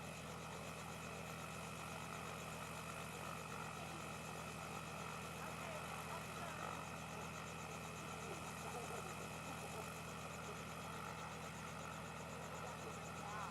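Steady engine drone of a moving vehicle, with faint voices underneath.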